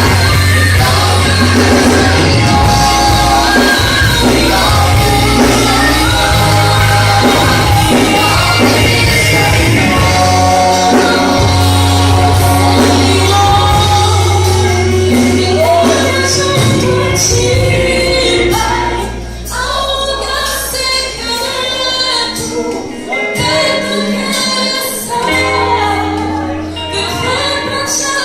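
Choir singing a worship song with band accompaniment and a strong bass line. About nineteen seconds in, the accompaniment thins out and the music goes on more softly.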